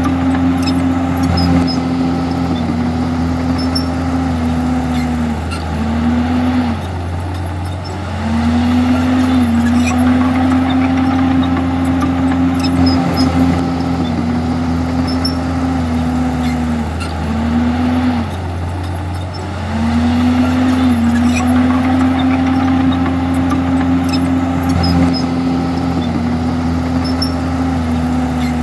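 Komatsu D51EX bulldozer's diesel engine running hard under load while pushing stone and soil. Its note sags and recovers a few times in a row, in a pattern that repeats about every 11 seconds.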